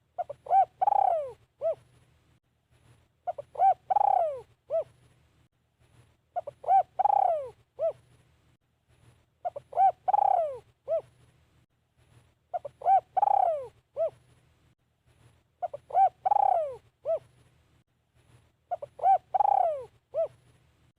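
Spotted dove cooing, repeating the same phrase about every three seconds: a couple of short coos, a louder drawn-out falling coo, then one short coo to close. This is a decoy bird calling to lure wild doves.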